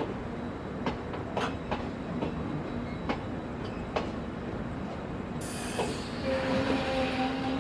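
Passenger train rolling on the track: irregular clicks of wheels over rail joints above a steady rumble. About five seconds in, a loud hiss comes in, with faint high squealing tones.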